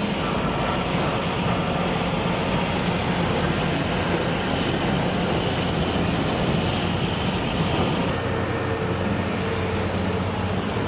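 Heavy vehicle diesel engine running steadily, its note shifting about eight seconds in.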